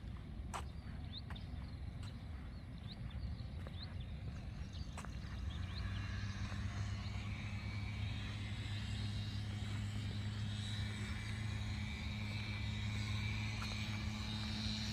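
A motor engine running steadily, coming in about five seconds in and holding at a slightly louder level to the end.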